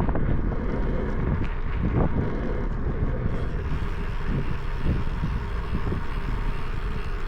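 Wind buffeting the microphone of a moving bicycle, a steady low rumble with irregular gusts.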